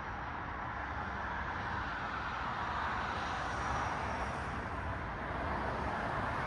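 Cars passing on a city street: a steady hiss of tyre and traffic noise that swells as a car goes by about halfway through.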